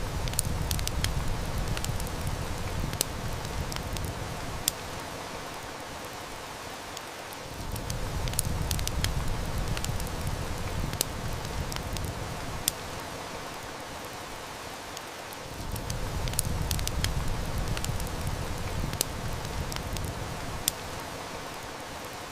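Steady heavy rain with a wood fire crackling in scattered sharp snaps, over a low rumble that swells up and dies back about every eight seconds.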